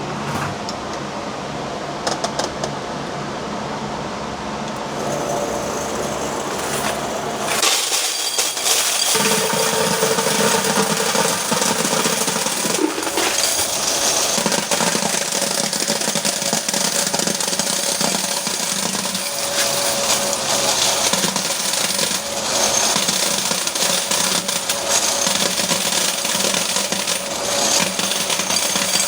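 Electric coin counter running with quarters rattling through it. It is quieter and steadier for the first seven or so seconds, then becomes a louder, dense clatter as the coins feed through.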